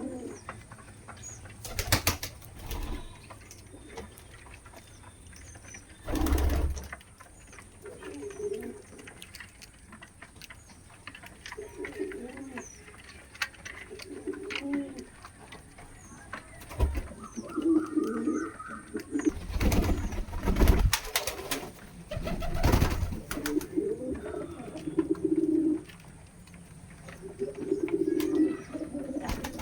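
Fantail pigeons cooing, low repeated coos one after another, with several loud sudden thumps in between.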